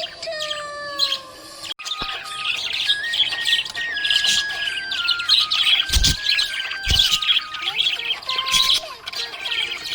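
Budgerigars chirping and warbling together in a dense, continuous chatter, with a gliding musical tune in the first couple of seconds and two dull thumps in the second half.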